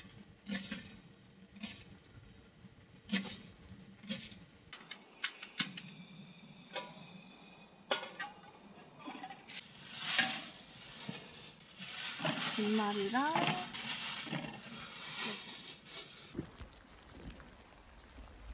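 Cooking sounds: a few separate clicks and taps of utensils, then food frying in hot oil in a frying pan, a loud sizzle from about ten seconds in that cuts off suddenly near the end.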